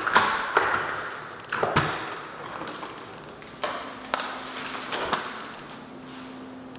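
Sharp knocks and clicks, about seven of them spread over five seconds, each with a short echo, the loudest at the start.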